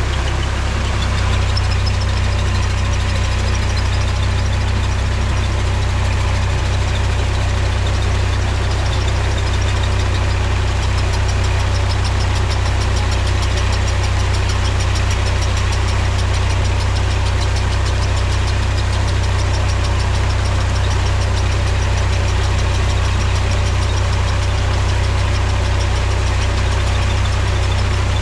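Mahindra tractor's diesel engine running steadily with a deep, even drone that stays constant throughout.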